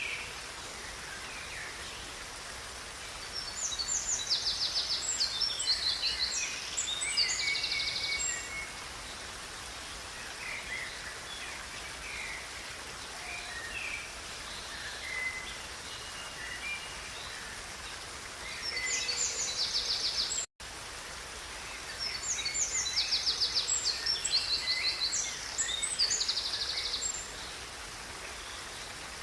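Steady rush of a river with a songbird singing long phrases of rapid, high trills twice, and softer chirps between. The sound drops out for a split second about two-thirds of the way through.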